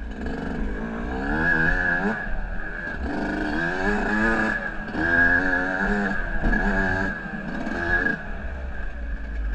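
Off-road motorcycle engine revving up and down repeatedly while riding a trail, its pitch rising and falling about once a second, over a steady high whine.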